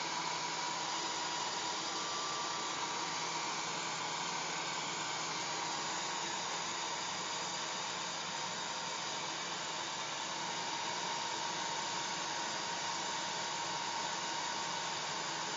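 Hair dryer running steadily: an even rushing blow of air with a faint steady whine.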